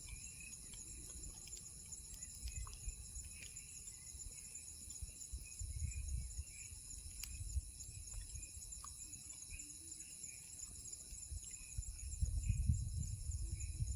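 Night-time insect chorus, a steady, finely pulsing high trill of many insects together. Low rumbling swells about six seconds in and again near the end.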